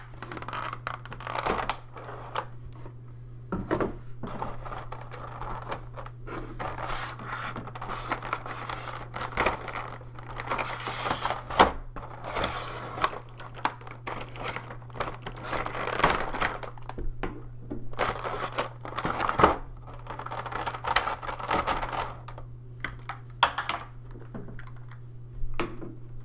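Plastic packaging crinkling and rustling with scattered clicks and taps as board-game miniatures are unpacked by hand, over a steady low hum.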